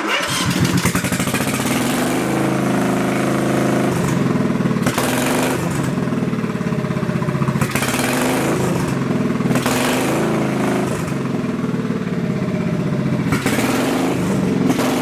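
Simplicity riding mower engine catching and running through a makeshift exhaust built from scrap parts, revved up about four times.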